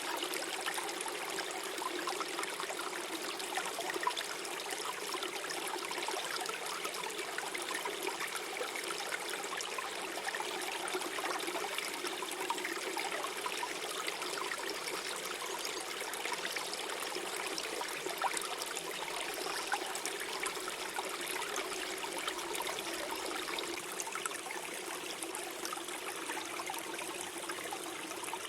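Small forest stream flowing and gurgling steadily over stones.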